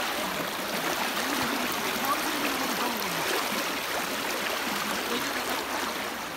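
Floodwater flowing steadily, a continuous rushing of water.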